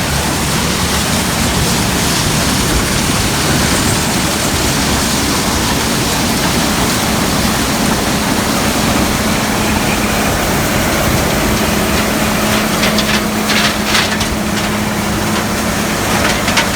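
Gleaner combine harvester running steadily under load, a loud continuous mechanical noise. A steady low hum comes in about halfway through, with a few rattles near the end.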